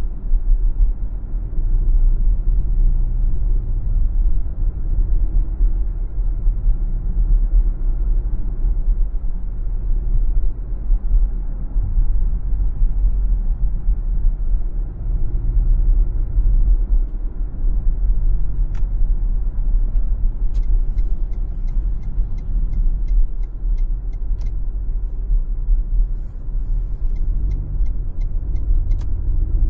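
Car driving on a city street: a steady low rumble of tyres and engine. In the second half a run of light, evenly spaced ticks, about two or three a second, joins the rumble.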